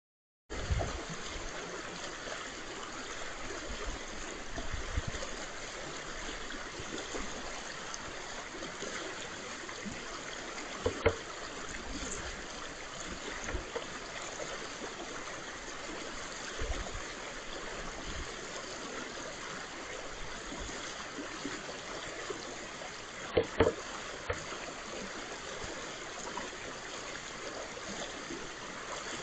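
Brook water running steadily. A few sharp knocks cut through it: one about eleven seconds in, and a quick pair late on.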